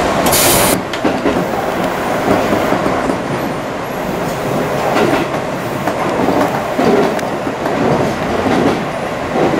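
Tobu Railway electric train running, heard from inside the driver's cab: steady running noise with wheels clacking over rail joints. A short hiss comes about half a second in.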